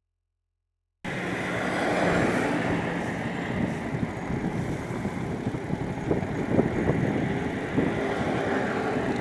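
Strong sandstorm wind rushing and gusting, starting suddenly about a second in.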